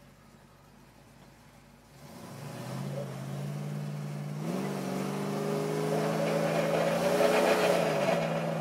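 Worked 351 V8 of a 1967 Mercury Cougar accelerating hard, heard from inside the cabin. After about two quiet seconds the engine note climbs, jumps higher about halfway in, keeps rising, and falls away near the end.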